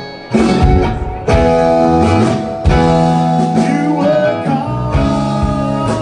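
Rock band music between sung lines: guitars with bending notes over bass and drums, with strong accents in the first few seconds.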